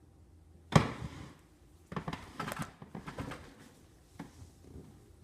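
Handling noise: a sharp thump about a second in, then a quick run of clicks and knocks, and one last click near the end.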